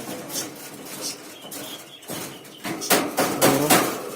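Domestic turkeys calling: after a few faint knocks, a loud burst of rapid, pitched calls starts near the end and runs on.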